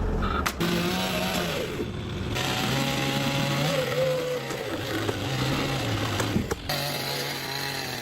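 A small engine running, its speed and pitch stepping up and down across several short cuts.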